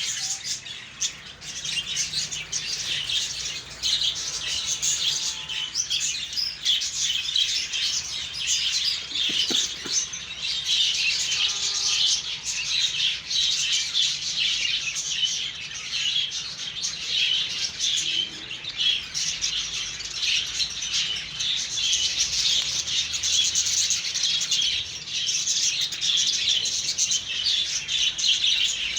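A colony of budgerigars chattering continuously, many birds' rapid chirps overlapping into one unbroken chorus.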